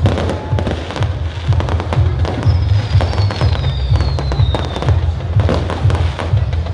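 Fireworks bursting and crackling in quick succession, with a long whistle falling slowly in pitch through the middle of the barrage.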